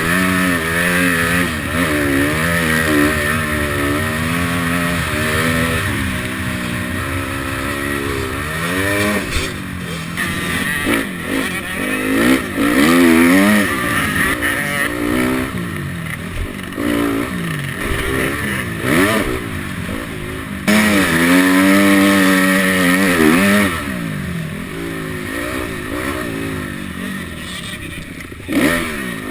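Motocross bike engines racing, the pitch rising and falling over and over as the riders open and close the throttle and shift. The sound changes abruptly about two-thirds of the way through.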